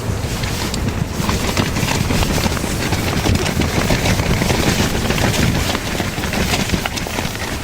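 Strong blizzard wind buffeting the microphone with a heavy low rumble, mixed with rapid, irregular crackling taps throughout.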